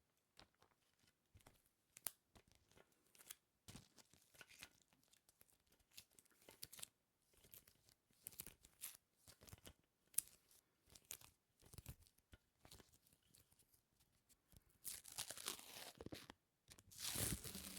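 Quiet, close-miked ASMR sticky sounds: many small crackles and clicks of something tacky being pressed and peeled apart, denser and louder about fifteen seconds in and again near the end.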